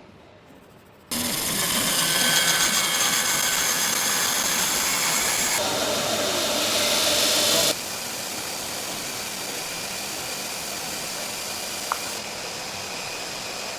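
Woodworking power tools running on pine in a steady, noisy drone. It starts abruptly about a second in, runs loudly for about six seconds, then switches at once to a quieter steady running sound, with a single click near the end.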